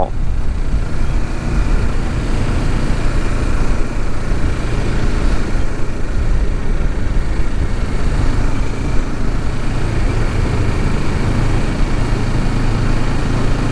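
Kawasaki Ninja 650's parallel-twin engine running steadily while riding, mixed with a constant rush of wind and road noise on the rider's microphone; the low engine tone comes through more clearly in the second half.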